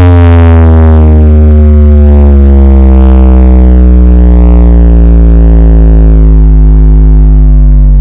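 A carnival horeg sound system playing electronic dance music at full volume: one long, deep bass synth tone sliding slowly down in pitch.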